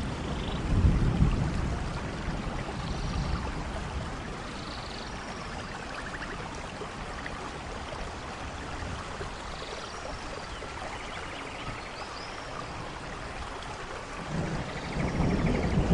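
Steady rainforest rain hissing, with low thunder rumbles about a second in and again near the end. Faint short high chirps and trills sound through the rain.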